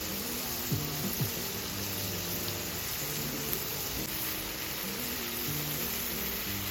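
Pieces of beef intestine (daechang and gopchang) and heart sizzling on a grill, a steady hiss.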